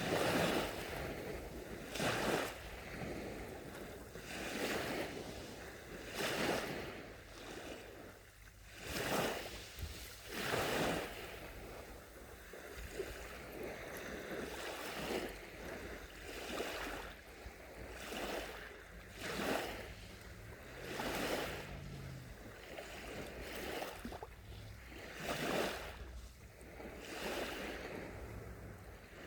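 Small sea waves washing onto a shore, a new surge of rushing water every two seconds or so.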